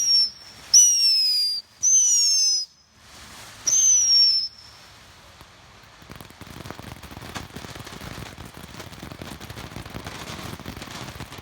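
Whistling fireworks going off: three loud, shrill whistles in quick succession, each about a second long and sliding down slightly in pitch. From about six seconds in comes steady crackling with scattered pops.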